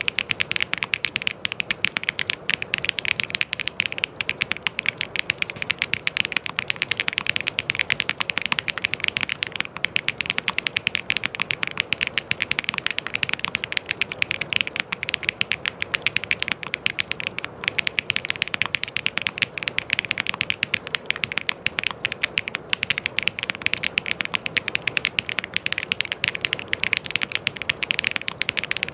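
Fast, continuous typing on a mechanical keyboard: a dense stream of crisp key clicks.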